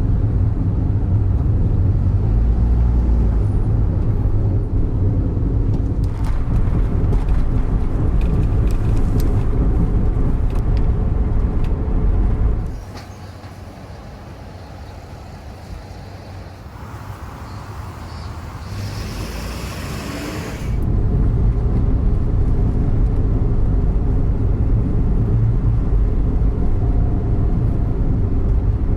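Car noise: a steady, loud, low rumble, with a quieter stretch from about 13 to 21 seconds in.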